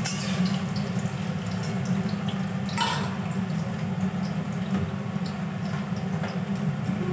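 Potato pieces frying in hot oil in an aluminium kadai, sizzling with many small crackles over a steady low hum. About three seconds in, a single brief knock stands out.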